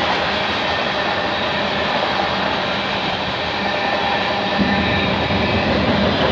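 A mixed freight train's tank cars and covered hoppers rolling past on the rails: a steady rush of wheel-on-rail noise without distinct clicks or bangs.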